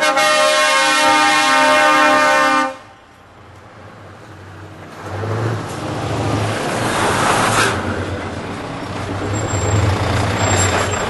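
Truck air horn sounding loudly, cutting off about three seconds in. Then a truck's diesel engine rumbles, growing louder.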